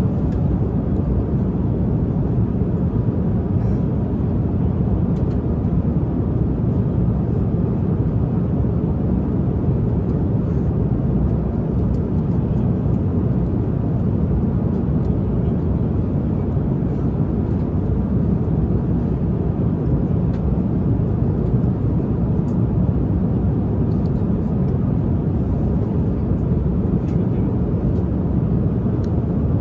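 Steady low rumble of a jet airliner's cabin in cruise flight, engine and airflow noise running evenly, with a few faint scattered ticks.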